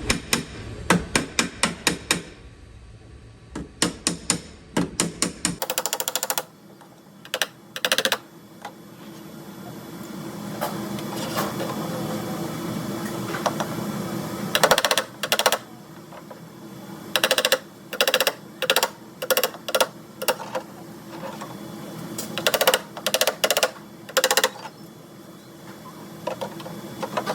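Body hammer tapping on a steel car quarter panel, metal bodywork to knock down a ridge and reshape the panel. The taps come in quick runs of about four to six a second, with short pauses between the runs.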